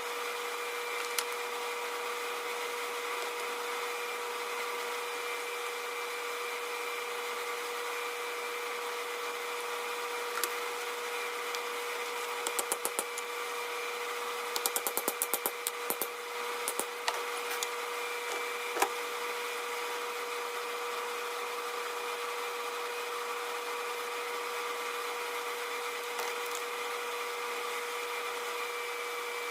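A power tool's motor running steadily with a constant hum, with two short runs of rapid clicks near the middle.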